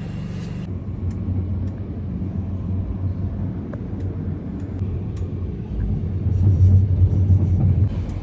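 Passenger train running, a steady low rumble heard from inside the carriage with a few faint ticks, swelling louder near the end.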